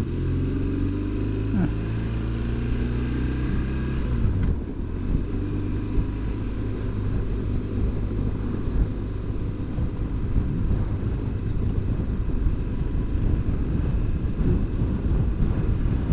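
BMW R1200GS Adventure motorcycle's boxer-twin engine running under way, with wind and road noise. The engine note drops slightly about four seconds in and gives way to a steady rumble.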